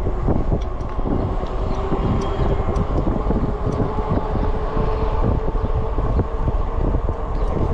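Wind buffeting the microphone on a moving e-bike, a steady low rumble with a faint steady hum underneath.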